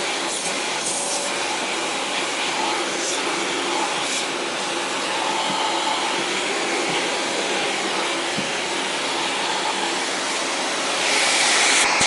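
Vacuum cleaner running steadily while being used to groom a cat, growing louder and hissier about eleven seconds in.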